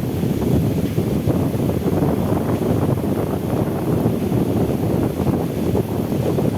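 Strong wind buffeting the microphone: a loud, low, gusting rumble.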